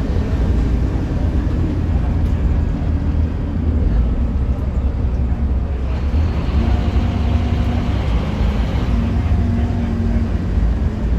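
Scania K310UB6X2 tri-axle bus running, a steady low engine and road rumble, with a faint steady whine joining it about six seconds in.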